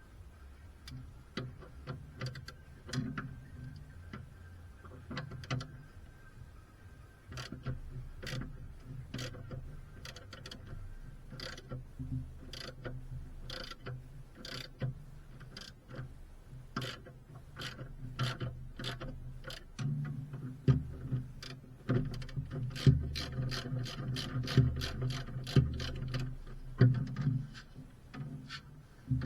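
Hand tools working on metal suspension parts: a ratchet clicking and metal parts knocking, irregular at first and more frequent in the second half, over a low steady hum.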